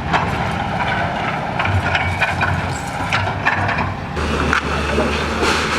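Demolition noise: many short cracks and knocks of material being broken, with a low steady hum coming in about four seconds in.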